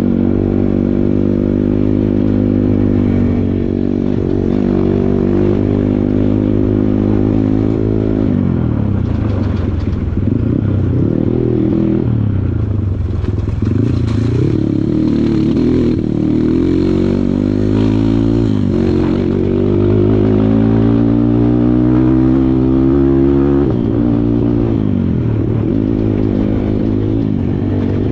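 Kawasaki KLX140 dirt bike's single-cylinder four-stroke engine running under load. The revs climb and fall again and again, with clear drops about a third of the way in and again near the end.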